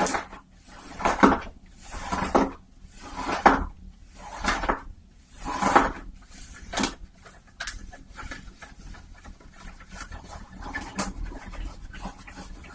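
Close-miked rubbing of a cloth hat's fabric, in slow strokes about one a second, then lighter scratching and tapping from about seven seconds in.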